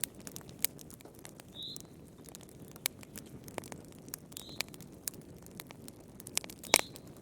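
Wood fire burning in a fireplace: irregular crackles and pops over a low, steady rush of flame, with a few brief high squeaks and a louder pop near the end.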